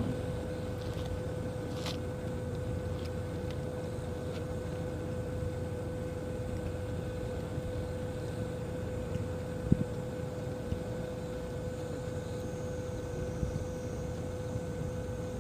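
A boat's engine running steadily: a low drone with a constant hum tone over it. A single sharp click sounds about ten seconds in.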